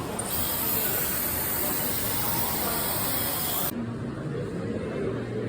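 A jet of blown air hissing from an air blower, switching on just after the start and cutting off abruptly after about three and a half seconds.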